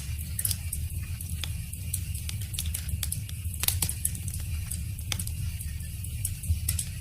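Wood fire crackling: irregular sharp pops and snaps from the burning wood over a steady low rumble of the flames.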